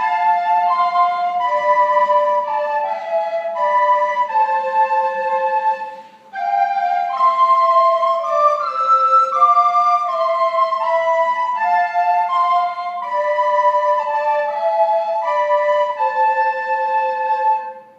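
Recorder playing a simple melody in clear, evenly held notes, with a short breath pause about six seconds in; the tune stops near the end.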